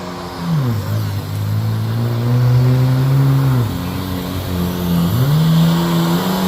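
An engine running and changing speed: its pitch drops sharply about half a second in, holds while slowly rising, drops again near four seconds, then climbs back up about five seconds in.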